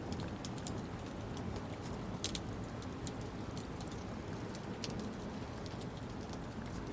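Campfire crackling: irregular sharp pops and snaps, one louder about two seconds in, over a steady low rumble.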